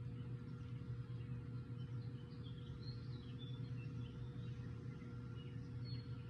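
Birds chirping faintly in short high calls over a steady low background hum.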